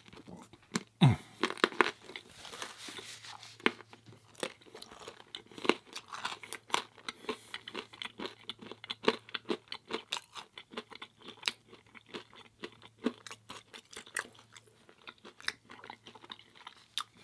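A person chewing pizza close to the microphone: a dense, irregular run of crisp crunches and mouth clicks, over a faint steady low hum.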